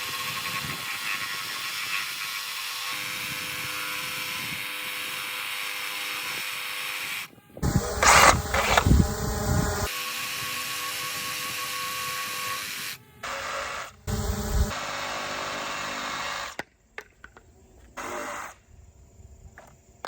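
Reciprocating saw cutting wood in several runs. Its steady motor and blade noise turns louder and harsher with a heavy rumble for about two seconds near the middle. The sawing stops about two-thirds of the way through, leaving only a few light knocks.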